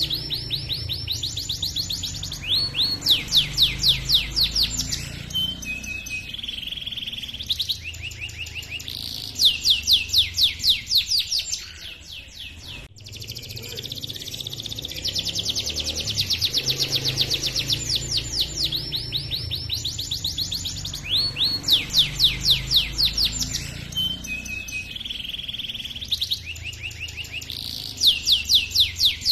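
Domestic canary singing a long, continuous song of high-pitched rolling trills and quick repeated chirps ('cuit cuit'), in phrases of a few seconds each.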